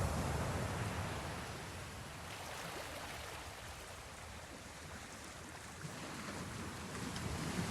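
Ocean waves washing in and drawing back: a wash fades to a lull through the middle, and the next wave builds near the end.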